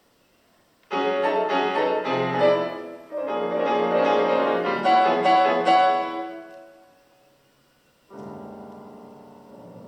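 Solo piano playing a loud, dense passage of struck chords that dies away to near silence. A softer passage of chords begins about eight seconds in.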